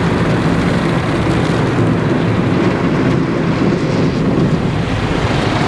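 Automatic car wash working over the car, heard from inside the cabin: water and brushes beating on the body and glass in a steady, loud, rain-like wash.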